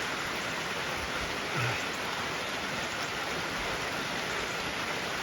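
Steady rain falling, an even hiss, with one brief low thump about a second and a half in.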